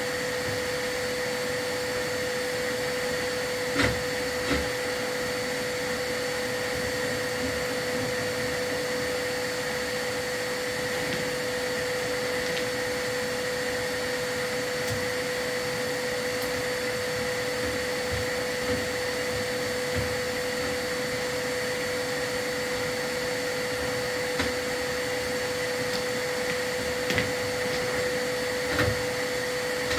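Vacuum running steadily with an even whining hum, as used to draw off soot during a chimney sweep, with a few short knocks over it.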